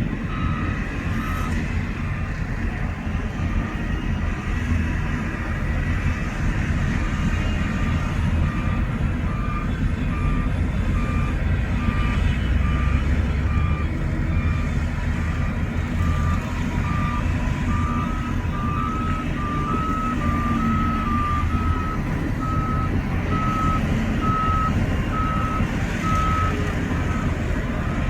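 Heavy diesel machinery running with a steady low rumble while a reversing alarm beeps at about two beeps a second. About halfway through, a second reversing alarm with a slightly higher pitch grows louder.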